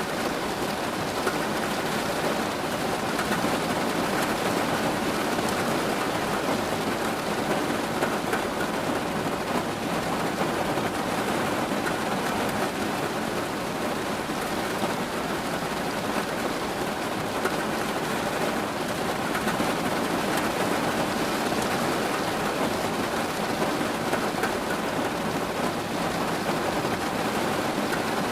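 Steady rain falling, an even, unbroken hiss of drops that holds at one level throughout.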